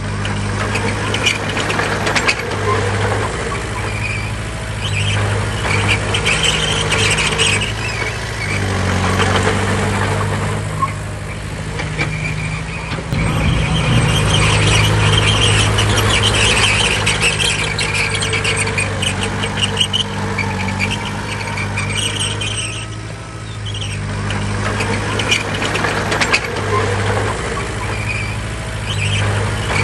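Crawler bulldozer working: its diesel engine runs steadily under load while the steel tracks squeal and clank, the squeal coming and going.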